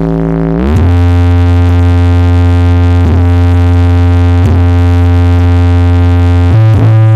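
Loud sound-system speakers playing a deep, sustained synthesizer bass drone. Its pitch slides down about half a second in and then holds steady, with a brief step up in pitch near the end.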